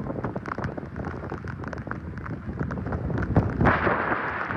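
Typhoon wind and heavy rain, the wind buffeting the microphone into a low rumble, with many sharp ticks and a stronger gust about three and a half seconds in.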